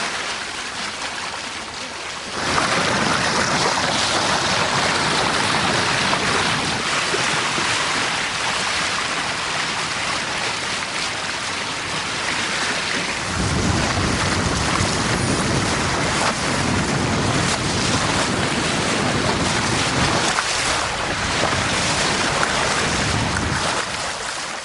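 Wind blowing across the microphone and water rushing past a sailing yacht's hull while under way, getting louder about two seconds in, with gusty low buffeting from about halfway through.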